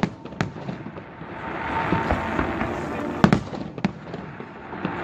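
Fireworks shells bursting: sharp bangs in two pairs, one right at the start and a louder pair a little after three seconds, over a steady background hiss.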